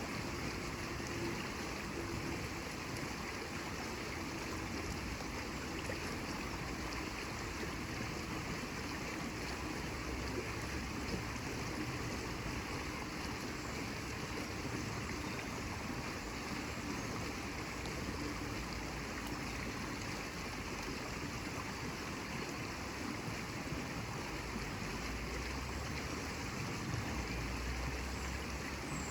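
Steady rushing of flowing water, an even continuous wash with no distinct events.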